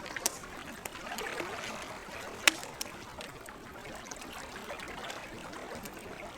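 Wood campfire crackling, with scattered sharp pops, the loudest about two and a half seconds in, over lake water lapping gently.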